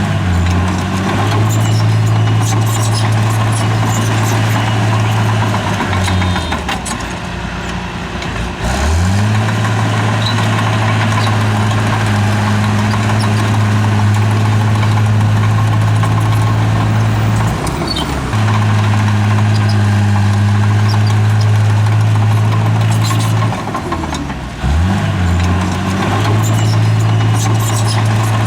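A bulldozer's heavy diesel engine runs under load with a steady low drone. Its pitch sags and climbs back about a fifth of the way in, briefly past the middle, and again near the end, as the load and throttle change. Faint clanks and clicks, typical of the tracks and blade working rock and soil, sound above it.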